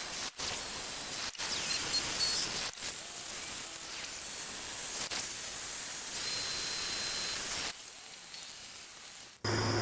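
Sped-up metal machining noise from a small workshop machine tool: a steady hiss with faint high whines, in several short clips joined by abrupt cuts.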